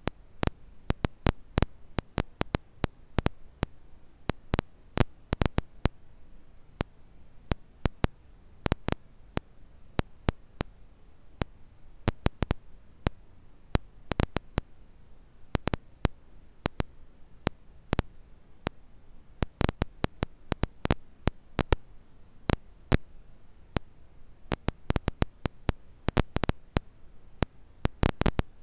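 Campfire crackling: irregular sharp pops and snaps from burning wood, several a second, over a faint low hiss.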